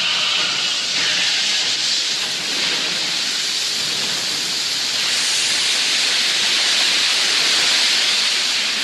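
Steady, loud hiss of steam and spray venting from the Kavachi undersea volcano erupting through the sea surface.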